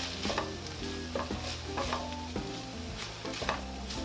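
Ground beef with onions and garlic sizzling in a frying pan while being stirred, the utensil scraping the pan in irregular strokes about twice a second.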